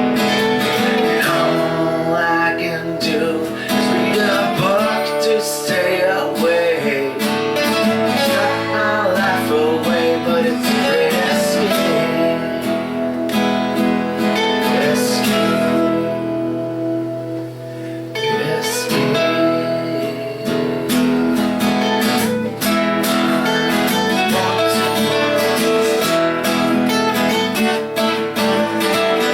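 Acoustic guitar strummed and picked, playing a cover of a rock song, with a short quieter passage about halfway through.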